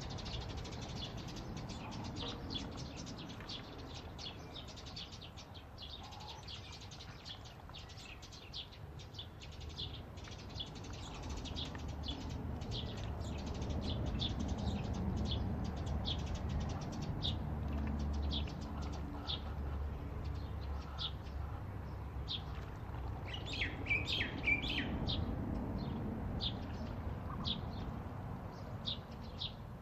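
Small birds chirping: many short, high chirps repeated all through, busiest about three-quarters of the way in, over a steady low rumble.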